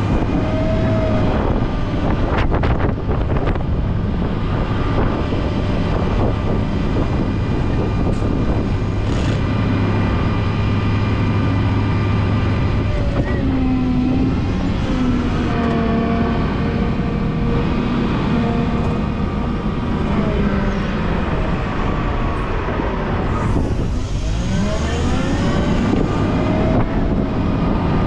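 Volvo L90H wheel loader running under load while plowing snow, its engine and whining drive tones rising and falling in pitch as the revs change, with a marked drop and climb in pitch near the end.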